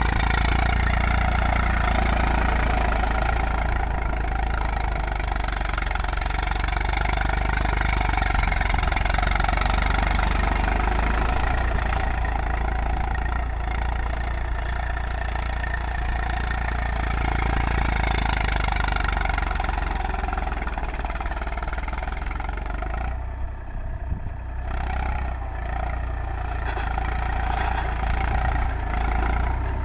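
Eicher 380 tractor's diesel engine running steadily, easing briefly about three-quarters of the way through.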